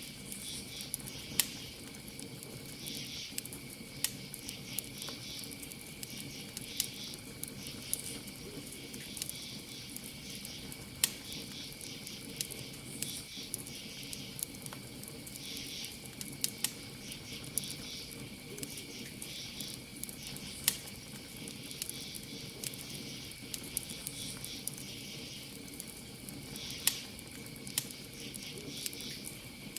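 Campfire crackling, with irregular sharp pops scattered throughout, over a steady high-pitched trill of crickets.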